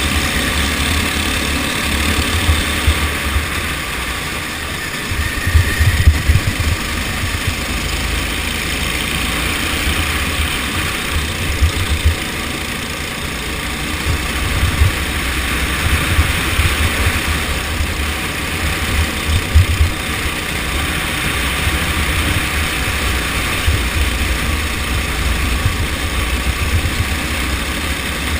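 Go-kart engine running through a race, a steady loud drone with heavy low rumble that swells into louder thumps several times.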